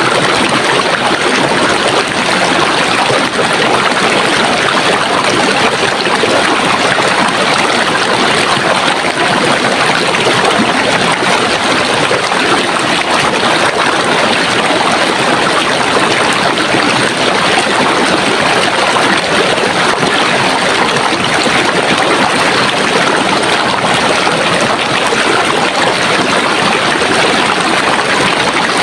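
Running water: a stream flowing and splashing steadily, with no pauses or surges.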